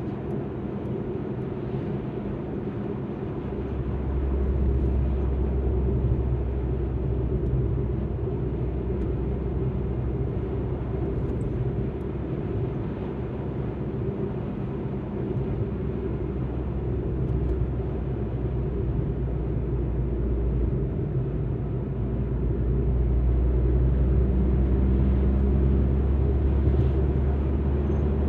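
Alfa Romeo MiTo on the move: a steady low rumble of engine and road noise that swells about three seconds in and again near the end.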